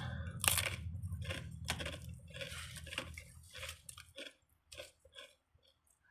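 A person chewing a sandwich close to the microphone: a run of short, wet mouth clicks and smacks that thins out and grows fainter about four seconds in.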